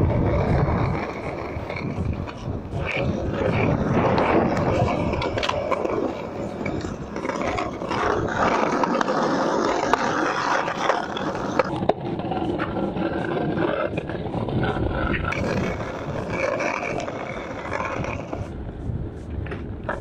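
Skateboard wheels rolling over concrete, a steady rumbling scrape broken by sharp clacks of the board hitting the ground now and then.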